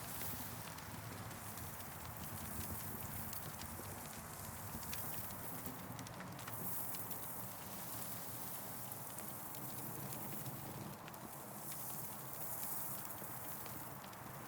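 Campfire crackling: irregular sharp pops and snaps over a steady hiss that swells and fades now and then.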